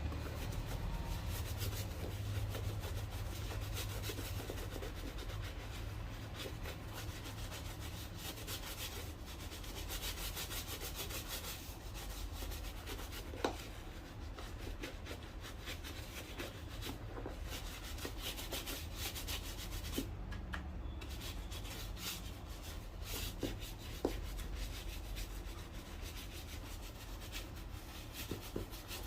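A shoe being worked by hand with quick, continuous rubbing strokes, scrubbing or sanding at the leather and sole. A few sharp knocks stand out, about 13, 20 and 24 seconds in.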